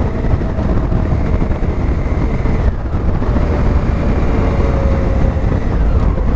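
Honda Africa Twin's parallel-twin engine running on the move, with wind rushing over the microphone. The engine note dips briefly about three seconds in and falls steadily near the end as the bike slows.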